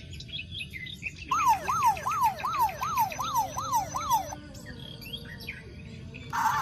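Electronic toy sound effect: a siren-like wail that sweeps down over and over, about three times a second, for some three seconds, with high electronic chirps above it.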